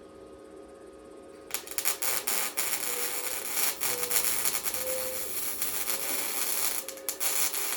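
Arc welding: after a low hum, the arc is struck about a second and a half in and crackles and hisses steadily with irregular pops as a weld bead is laid on the door hinges.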